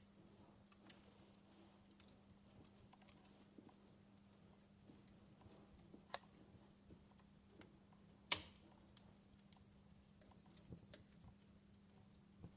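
Wood fire in a fireplace crackling softly, with scattered sharp snaps and one loud pop about eight seconds in.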